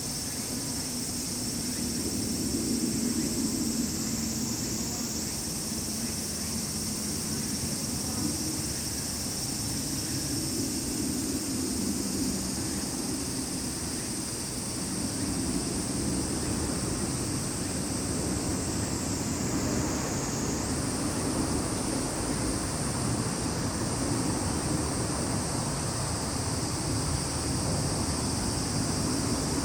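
Chorus of summer insects, cicadas and crickets, a steady high-pitched buzzing that shifts pitch a few times, over a low distant rumble that swells and fades.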